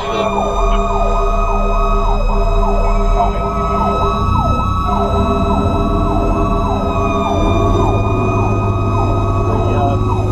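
Fire truck siren yelping in rapid up-and-down sweeps about twice a second, with a short break near the middle, over the truck's engine, heard from inside the cab.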